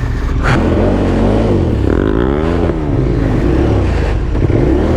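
KTM 1290 Super Adventure S's V-twin engine revving up and down repeatedly while the bike is stuck in deep mud, the rear wheel spinning and digging itself in.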